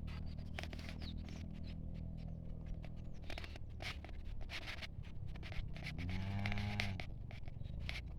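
Cow giving one low moo about six seconds in, lasting about a second, among scattered light rustling clicks.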